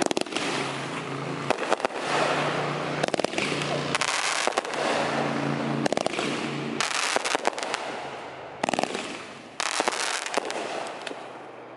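Ground-fired consumer firework cake going off: a steady spark hiss thick with sharp crackling pops, with four denser rushes of crackle later on. It dies down near the end.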